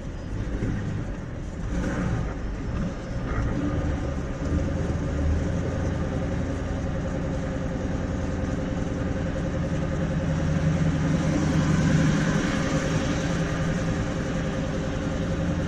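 Lorry diesel engine labouring under heavy load in first gear as it hauls a laden trailer slowly uphill. It is a steady drone that swells a little about two-thirds of the way through.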